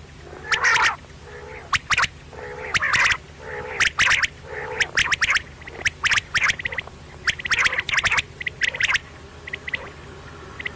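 Quail calling over and over: short, sharp notes in quick bouts, several a second, with brief gaps between bouts.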